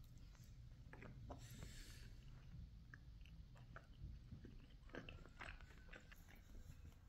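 Faint chewing of soft protein pancakes, with scattered small clicks.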